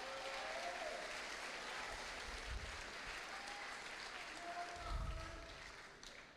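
Audience applauding for a graduate whose name has just been called, with a few faint voices in the crowd and a low thump about five seconds in. The clapping fades out near the end.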